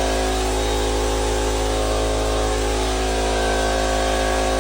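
A machine's motor running steadily at one unchanging pitch.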